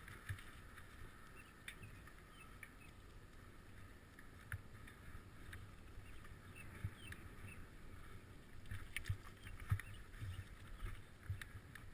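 Bicycle rattling and clicking as it rolls over uneven ground, with scattered knocks and low thumps over a steady faint hiss. The knocks come thicker and louder about nine seconds in.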